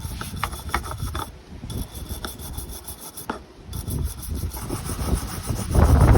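A boat's air vent being rubbed clean by hand after a soak in vinegar and hot water: irregular rough rubbing strokes with a few sharp clicks, getting louder near the end.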